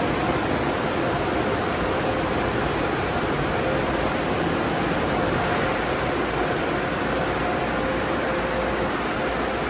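Tunnel car wash equipment running: a steady rushing noise with a faint steady whine.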